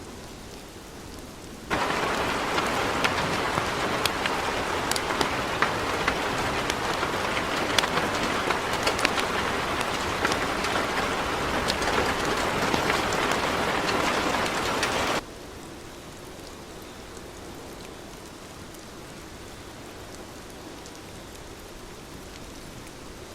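Heavy rainfall, a steady hiss. About two seconds in it abruptly becomes much louder and denser, with many sharp individual drop impacts. About two-thirds of the way through it drops back just as suddenly to the steadier, softer rain.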